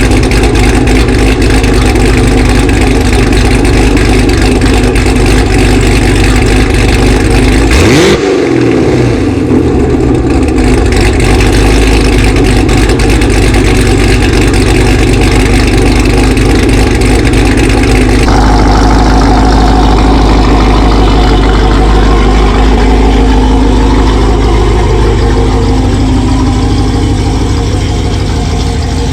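Chevrolet Camaro ZL1 1LE's supercharged 6.2-litre V8 running loud through an aftermarket cam, headers and Corsa Extreme exhaust, with a falling pitch about eight seconds in as the revs drop.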